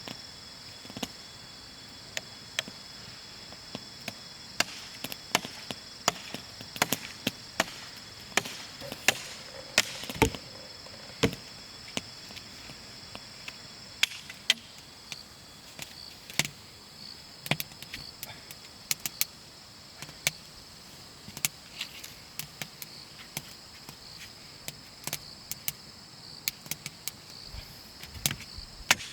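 Irregular sharp cracks and knocks, some bunched a few to the second and some spaced out, over a steady high chirring of forest insects.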